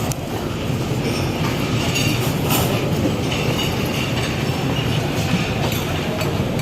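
Steady rumble of a jet airliner taking off, heard from inside an airport lounge, with a few light clicks and clinks scattered through it.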